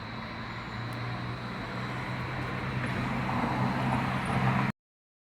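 A road vehicle running, a steady hum over road noise, growing louder as it approaches, then cutting off suddenly near the end.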